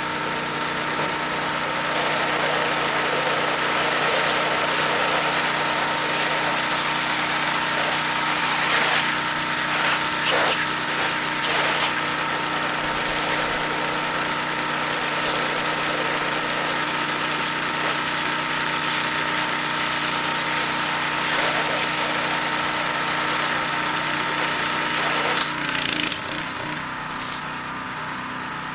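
Pressure washer engine running steadily under load while the wand sprays through the black low-pressure soap tip, laying down mildew cleaner with a steady hiss of spray. Near the end the spray stops, the engine note shifts and the sound gets quieter.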